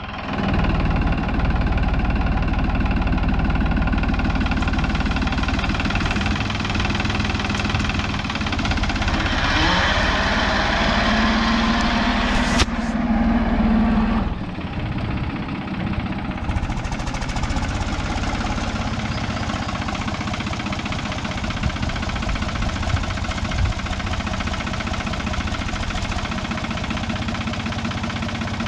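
A vehicle engine running steadily, louder for the first fourteen seconds, then settling a little quieter. There is a sharp click about twelve seconds in.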